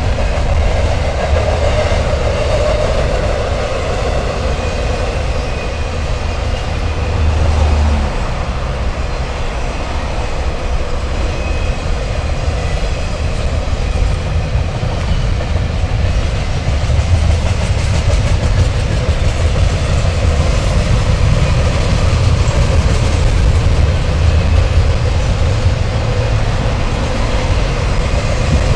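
Norfolk Southern double-stack intermodal freight train's cars rolling steadily across an elevated railroad bridge, wheels running on the rails with a continuous low rumble.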